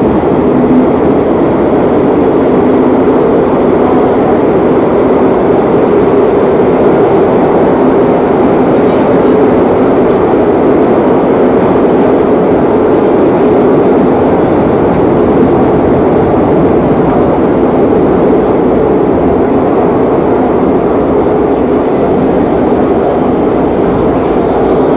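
Madrid Metro 8000-series train running at speed, heard from inside the carriage: a steady, loud rumble of wheels on rail and running gear, even throughout.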